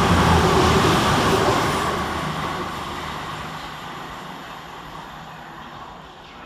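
CrossCountry Class 220 Voyager diesel multiple unit passing through at speed, its engine and wheel noise fading steadily as it moves away.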